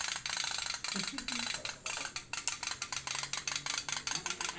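Otok-otok toy steam boat (a tin pop-pop boat) running, its flame-heated boiler popping in a rapid, even series of sharp clicks.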